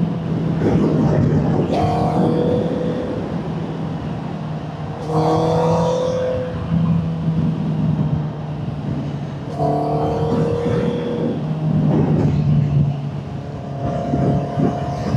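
Honda CBR650R's inline-four through an aftermarket Vandemon exhaust, pulling hard under way: the engine note climbs and drops back about four times, over a steady rush of wind.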